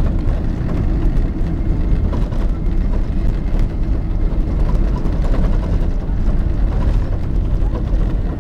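Jet airliner heard from inside the cabin during landing: a loud, steady rumble of engines and rushing air.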